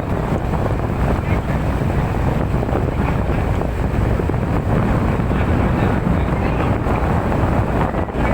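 Boat underway: a steady rush of motor and water noise, with wind buffeting the microphone.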